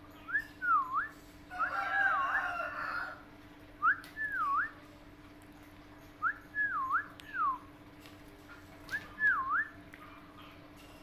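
Short whistled notes, each a quick swoop down and back up in pitch, repeated in small groups with pauses between, and a burst of chirpy chatter about two seconds in.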